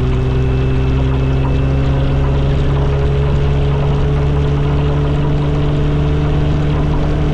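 Motorcycle engine running under way, its pitch rising slowly and evenly, over a steady rush of wind noise.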